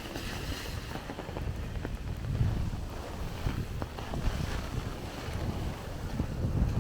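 Gusty wind buffeting the microphone, rumbling in uneven gusts with stronger ones about two seconds in and near the end, over a steady hiss of falling rain.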